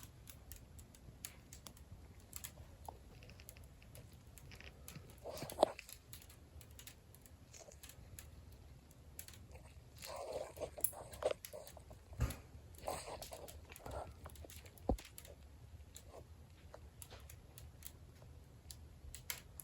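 Glazed clay tiles crackling faintly with freshly installed grout: scattered small ticks and pops, with a few louder snaps about five seconds in and again around ten to fifteen seconds in.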